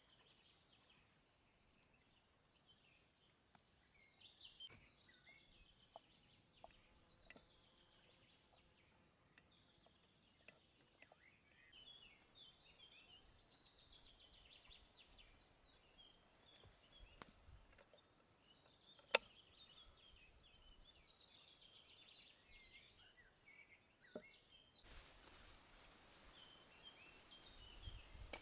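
Faint birdsong: repeated high chirping phrases, with a few light clicks, one sharper click about two-thirds of the way in, and a soft hiss near the end.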